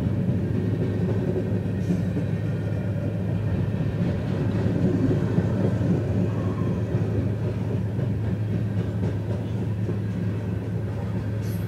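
A steady, even low rumble of running machinery that does not change.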